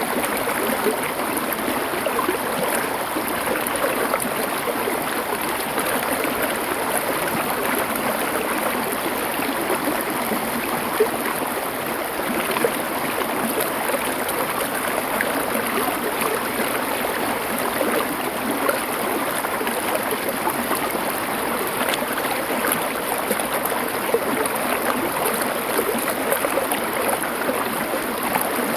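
Stream water flowing over stones: a steady rush with small scattered splashes.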